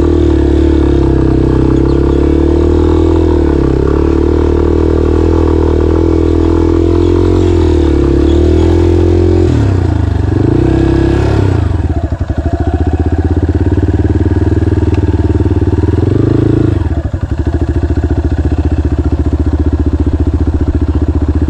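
Single-cylinder dual-sport motorcycle engine running under way, the revs shifting up and down as the bike is ridden. The revs drop about halfway through and again about three-quarters through, with the engine's pulses briefly audible, then pick up again.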